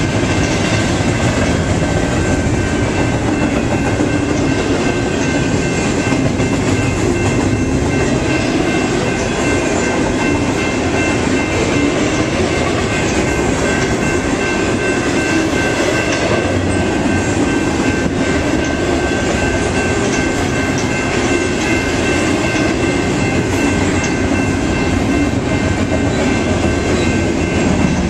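Train cars rolling past close by, wheels clattering over the rails in a steady loud rumble, with a few steady high ringing tones above it.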